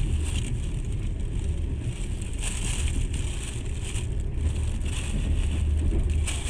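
A passenger train running at speed, heard from inside the carriage: a steady low rumble of wheels on the rails, with a hiss that swells and fades every second or two.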